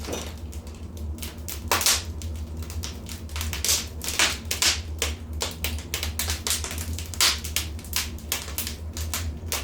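Wood fire in a fireplace crackling, with irregular sharp pops and snaps, a few louder than the rest, over a low steady hum.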